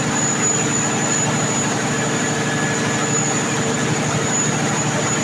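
Engine running steadily at constant speed, with a thin high whine over its low drone.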